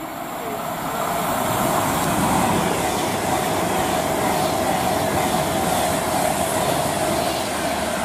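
A train running on the rails close by: a loud, steady rush of wheel and rail noise that builds over the first second or two and then holds.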